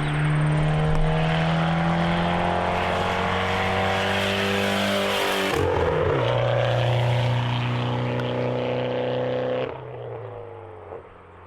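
Mitsubishi Lancer Evolution X's turbocharged 2.0-litre four-cylinder with a loud bolt-on aftermarket exhaust, accelerating with rising pitch. About halfway through, the pitch drops at a gear change and it pulls again. The sound falls away sharply near the end.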